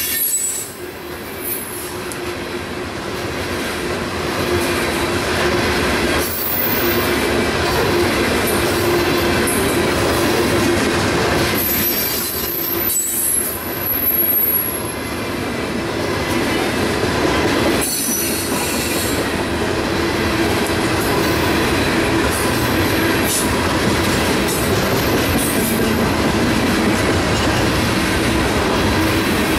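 Coal train's hopper cars rolling past close by: a steady loud rumble of steel wheels on rail with a clatter over the rail joints, and short high-pitched wheel squeals every few seconds.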